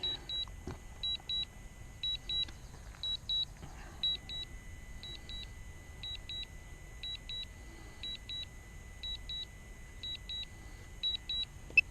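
Drone remote controller's low-battery warning beeping: high-pitched double beeps about once a second, warning that the aircraft battery is down to about 25%.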